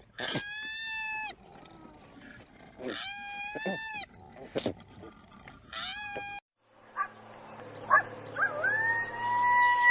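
An animal crying out three times, each cry a second or less at a steady high pitch. After a short break, a long drawn-out animal call begins near the end.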